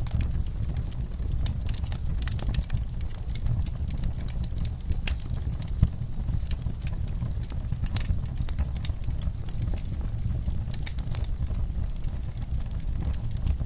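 Wood fire burning in a fireplace: irregular crackles and pops over a steady low rumble of the flames, with one louder pop about six seconds in.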